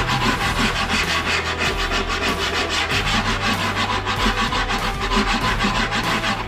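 Hand rasping or sanding strokes on a foam deer taxidermy form: quick, even back-and-forth scraping, several strokes a second, knocking sharp edges and seams off the form so they won't show through the hide.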